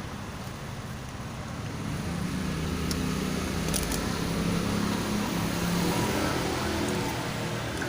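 A motor vehicle engine running with a steady low hum. It grows louder from about two seconds in and eases again near the end.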